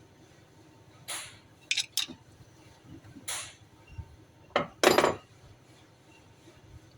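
Metal hand tools clinking and scraping against metal, as in work on the engine's valve gear: about six separate short clinks and scrapes, the loudest about five seconds in.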